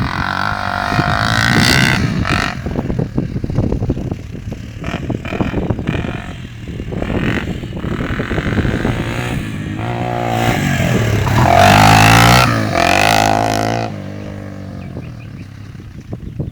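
Honda XR250R single-cylinder four-stroke dirt bike engine riding a motocross track, its pitch rising and falling as the throttle opens and closes, with rattling throughout. It climbs to its loudest about two-thirds of the way in, then drops off sharply near the end.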